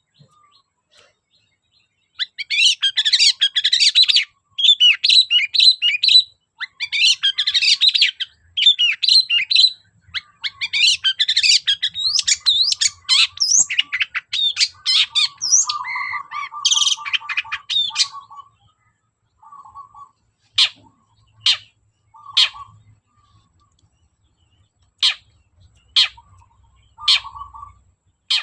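Long-tailed shrike singing a fast, varied chattering song in bursts separated by short pauses. In the last third it changes to sharp single call notes about once a second, with low rattling trills between them.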